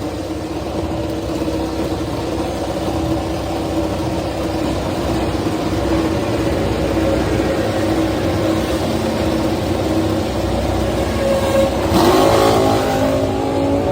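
Racing motorcycle engine running at steady revs. About twelve seconds in, it gets louder and the pitch rises as the engine revs up.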